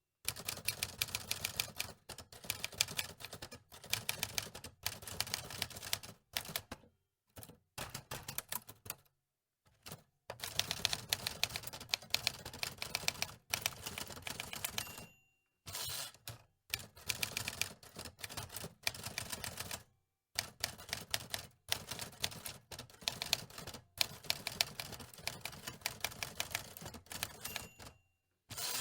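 Antique typewriter being typed on: runs of rapid key clacks lasting a few seconds each, separated by short pauses, with a brief ring near the middle.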